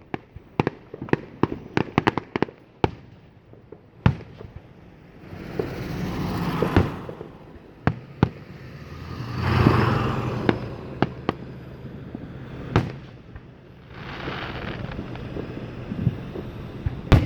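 Fireworks going off: a quick run of sharp bangs in the first few seconds, then single booms every few seconds between several longer swells of rushing noise.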